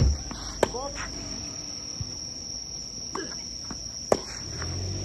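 Tennis balls struck by rackets in a doubles rally: two sharp pops about three and a half seconds apart, with a few fainter hits between them. A steady high-pitched insect drone runs underneath.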